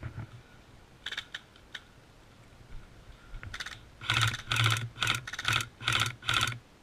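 Airsoft gun firing: a few light clicks, then a string of about seven short rapid-fire bursts in the last three seconds.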